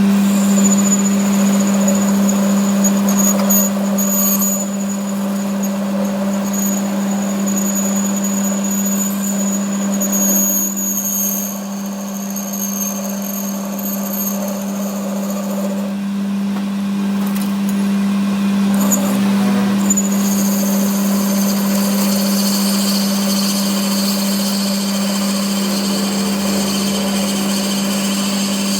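A workshop machine running steadily: a constant low hum with a high whine over it that stops for a few seconds a little past halfway, then comes back.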